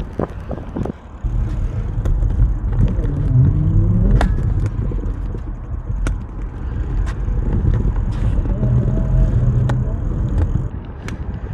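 Riding noise from an e-bike on the move: a steady low rumble of tyres and wind on the microphone, with scattered sharp rattles and knocks from bumps, and a tone that dips and rises in pitch twice.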